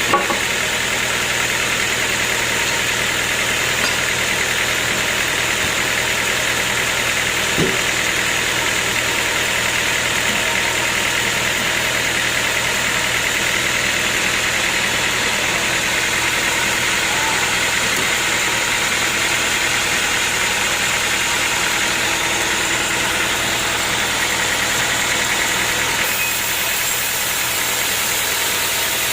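Sawmill machinery running steadily with an even engine-like hum and hiss, and one light knock about eight seconds in.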